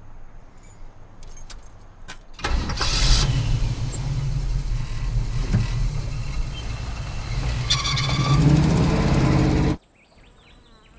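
A few light clicks, then an old car's engine starts and runs loudly, rising in pitch near the end before cutting off suddenly.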